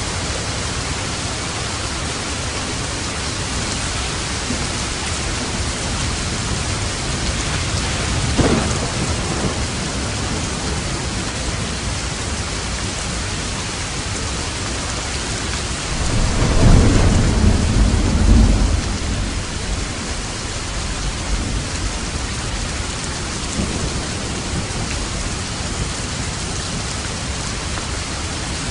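Steady heavy rain with thunder: a short clap about eight seconds in, and a louder, low rolling rumble about sixteen seconds in that lasts some three seconds.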